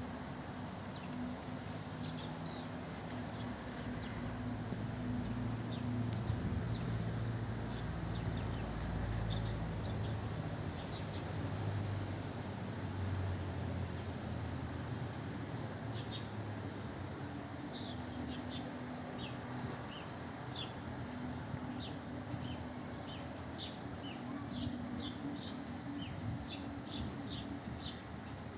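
Small birds chirping in short, high calls, scattered at first and then in quick runs through the second half, over a steady low background rumble.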